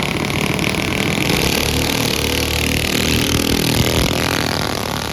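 Mini bike engines at high revs as the bikes race past. The engine note climbs and then drops away, loudest about four seconds in, then fading.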